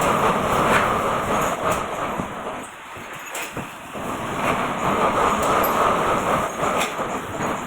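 Machinery running with a steady, rough mechanical noise that drops away briefly about three seconds in, then picks up again.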